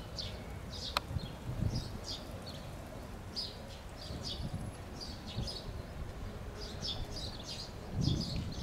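Small birds chirping in short, repeated calls over a steady low rumble, with a single sharp click about a second in and a low thump near the end.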